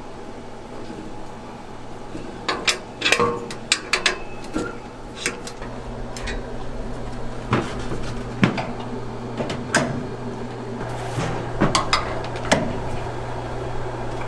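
Kitchen clatter: a dozen or so sharp knocks and clinks of utensils and containers, scattered irregularly after the first couple of seconds, over a steady low machine hum.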